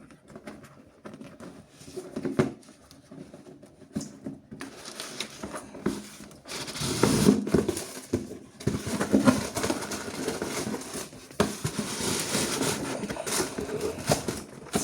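Hands handling a cardboard shoebox and its packing: irregular rustling, scraping and light knocks. These are sparse at first and grow busier after about four seconds.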